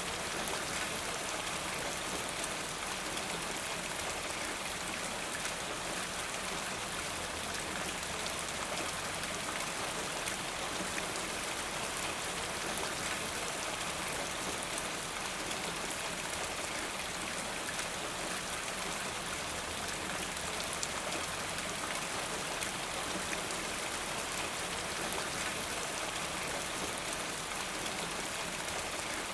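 Steady rain falling, an even hiss of many small drops pattering on a surface, with no change in strength.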